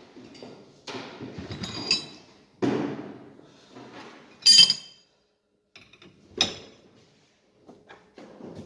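Metal tools and parts knocking and clinking on one another. There are several dull knocks and three ringing metallic clinks; the loudest clink comes about halfway through.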